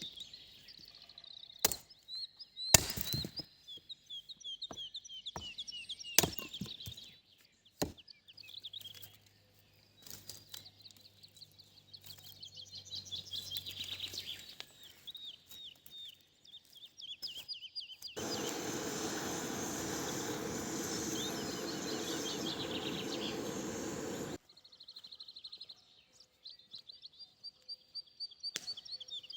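Small songbirds chirping and singing, with several sharp knocks in the first eight seconds. In the middle, about six seconds of steady rushing noise starts and stops abruptly.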